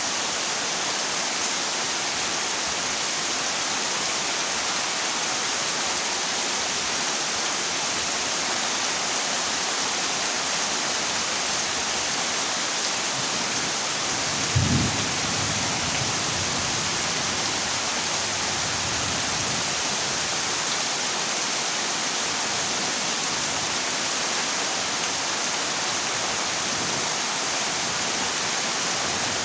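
Heavy rain drumming on a corrugated zinc roof, a steady hiss, with a short rumble of thunder about halfway through.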